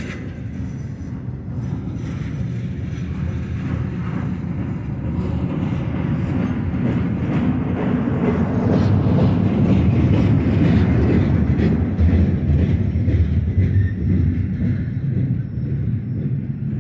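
Union Pacific double-stack intermodal container cars rolling past on steel wheels, with a steady rumble and clicking clatter over the rails. It grows louder toward the middle, then eases near the end as the last car goes by.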